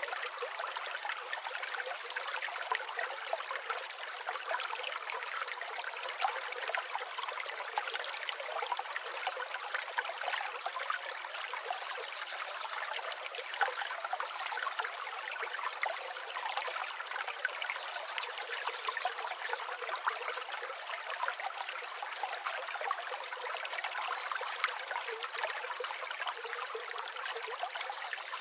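River water flowing with a steady babbling, trickling sound made of many small splashes. The sound is thin, with no deep rumble.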